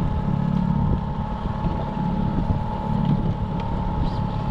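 Boat motor running steadily at trolling speed: a constant low drone with a steady whine above it, and wind noise on the microphone.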